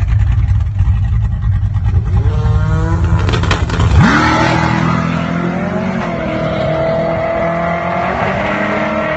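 A nitrous Ford Foxbody Mustang's 5.0 V8 rumbling at low revs, then revving up in a few rising pulls. About four seconds in the revs shoot up and hold high and steady as the car does a burnout.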